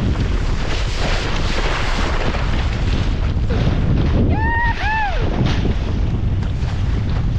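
Strong wind buffeting the microphone with water rushing and splashing, aboard a Laser dinghy sailing in high winds. About halfway through, two short high calls rise and fall.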